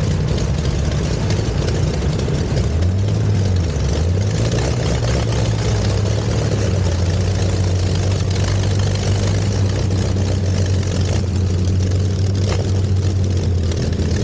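Curtiss OX-5 V8 aero engine in the Luxior running at a low, steady idle; about three seconds in the revs pick up a little and then hold steady.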